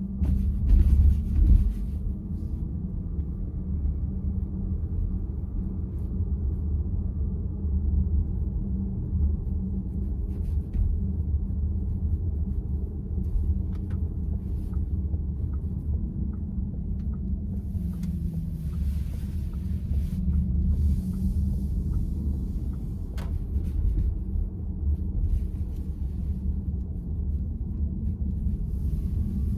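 Road and tyre rumble inside the cabin of a VW ID.4 electric car while driving, with no engine note, and a louder bump about a second in. A run of faint, even ticks about twice a second comes around the middle.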